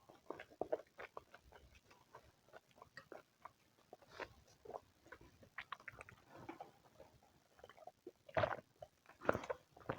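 Close-miked eating sounds: a person chewing, with many small wet mouth clicks scattered throughout and two louder bursts near the end.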